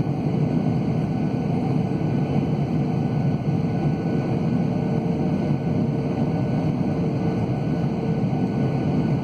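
Cabin noise inside a Boeing 737-800 in flight: a steady low rumble of engines and airflow, with a faint constant whine over it.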